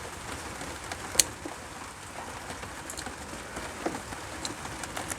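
Scattered small clicks and ticks over a steady hiss, the sharpest click about a second in.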